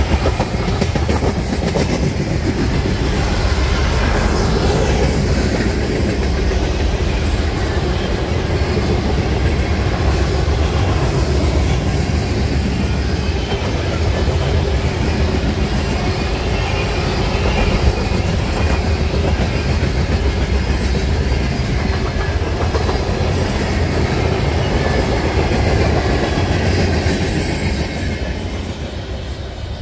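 Freight train's tank cars and boxcars rolling past, a steady heavy rumble of steel wheels on the rails. It fades away near the end as the last car goes by.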